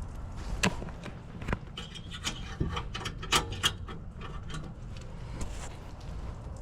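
Irregular sharp metallic clicks and clatter of small parts and tools being handled, several in quick succession in the middle, over a steady low hum.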